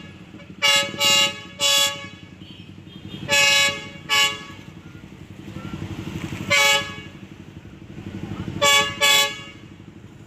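Locomotive horn of a shunting freight train sounding in short toots of the same pitch: three quick ones about a second in, two more around the middle, one near two-thirds of the way, and a double toot near the end. A steady low rumble runs underneath.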